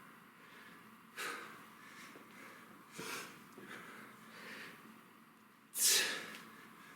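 A man breathing hard during a kettlebell set: four sharp, forceful exhales, about a second and a half apart, with the loudest near the end.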